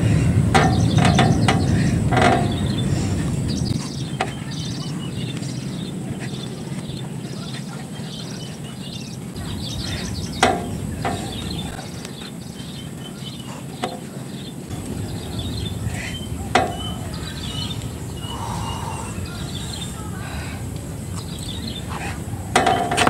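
Small birds chirping and twittering over a low outdoor rumble, which is loudest in the first few seconds. A few sharp knocks come in the middle.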